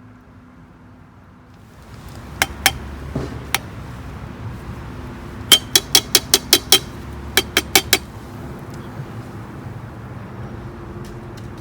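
A series of sharp clinks of hard objects. There are a few scattered ones, then a quick run of about seven at roughly five a second, then four more, over a steady low background noise that comes up about two seconds in.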